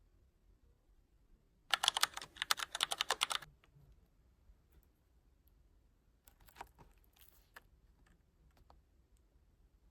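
A rapid run of sharp clicks, about ten a second for nearly two seconds, then a few scattered lighter clicks and faint handling rustles.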